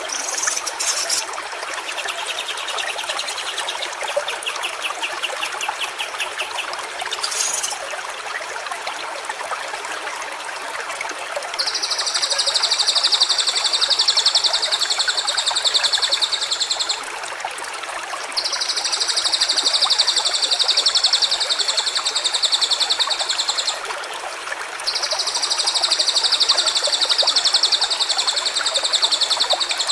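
Steady rush of a running stream. From about twelve seconds in, a high, rapidly pulsed buzzing trill sounds three times, each lasting about five seconds with short gaps between. A fainter rapid trill comes in the first few seconds.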